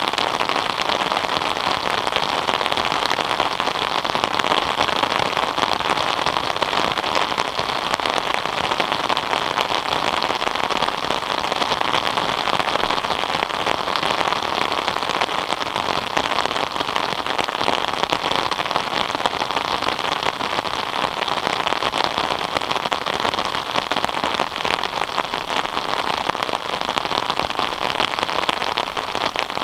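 Steady rain falling, a dense patter of drops with no let-up.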